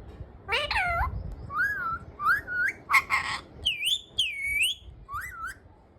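Pet parrot giving a quick run of about seven short whistled calls that swoop up and down in pitch, with a harsher squawk in the middle. The calls stop shortly before the end.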